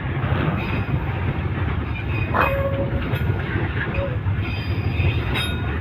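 Freight train's wagons rolling past with a steady low rumble.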